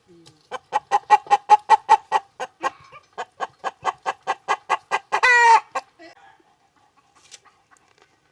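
Hen cackling: a quick run of short clucks, about five a second, ending about five seconds in with one longer drawn-out squawk.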